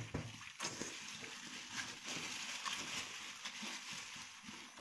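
A person chewing and slurping a mouthful of fatty red-braised pork belly, with wet smacking mouth sounds and small scattered clicks over a steady hiss.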